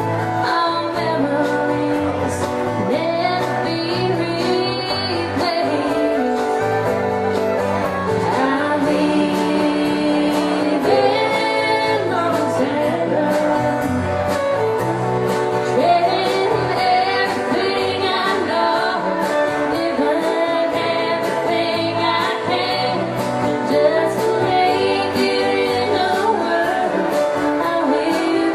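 A country band playing a song, with guitar and a woman singing.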